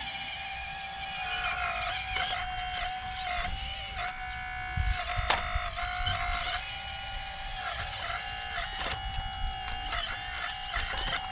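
Whine of an RC hydraulic excavator's electric pump motor running steadily, its pitch dipping briefly several times as the hydraulics take load, with a few sharp clicks.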